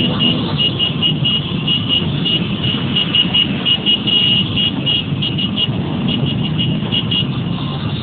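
Many motorcycles running together in a street rally, a steady engine rumble. Over it a high-pitched tone pulses on and off several times a second, thinning out near the end.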